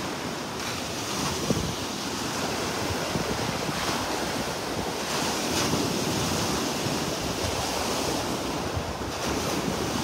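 Wind buffeting the microphone over a steady rushing noise that swells and eases, with no distinct events.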